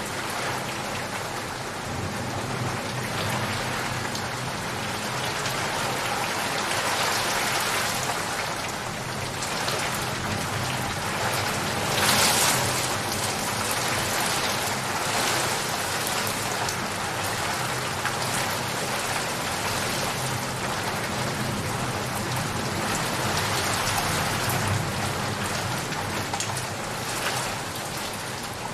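Steady rain falling and pattering on surfaces, an even hiss of drops, with a brief louder swell about twelve seconds in.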